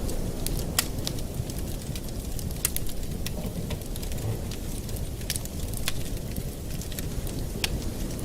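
Wood fire in a fireplace crackling: irregular sharp pops, a dozen or so, over a steady low rush.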